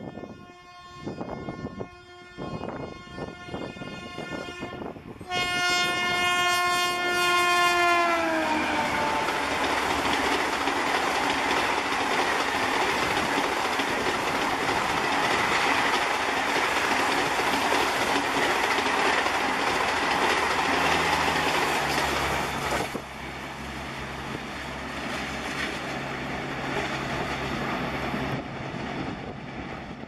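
WAP-7 electric locomotive horn sounding several short blasts, then a loud long blast whose pitch drops about eight seconds in as the locomotive passes. The rushing noise of the express coaches running through at speed follows for about fifteen seconds, then drops off sharply and the passing train fades.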